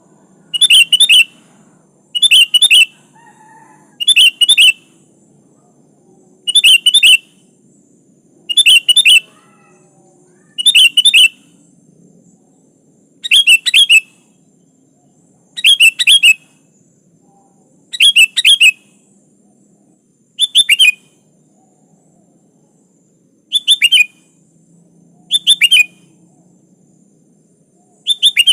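Sooty-headed bulbul (kutilang) calling over and over: a short, bright phrase about every two seconds, each under a second long. A faint low hum runs beneath the calls.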